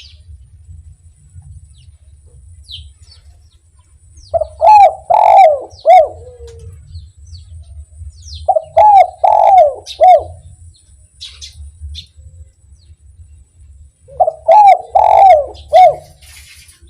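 Spotted dove (derkuku) singing its cooing song: three phrases of several quick coos each, spread a few seconds apart. Faint chirps from small birds sound between the phrases.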